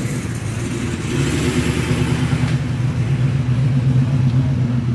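Car engine running at a steady low pitch.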